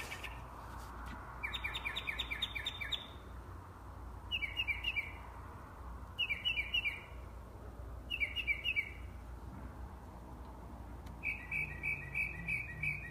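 A bird singing at night in short runs of quick, repeated chirps, five runs with pauses between them. The last run, starting near the end, is a longer fast string of the same note that sounds like a car alarm.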